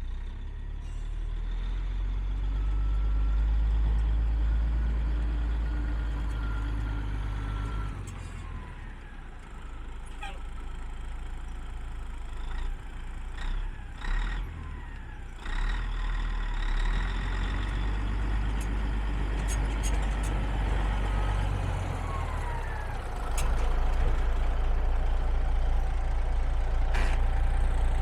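A 1985 Ford 9000 heavy truck's diesel engine running, its sound swelling and easing, with a few short sharp sounds about halfway through. The engine is louder for the last few seconds.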